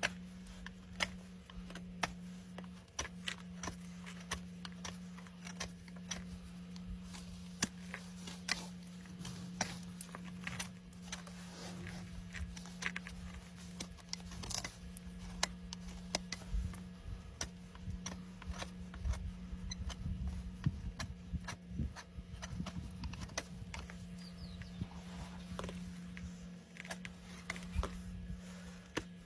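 Hoof-trimming work on a horse's hoof: irregular sharp clicks and short scrapes of a hand tool cutting and paring the hoof, over a steady low hum.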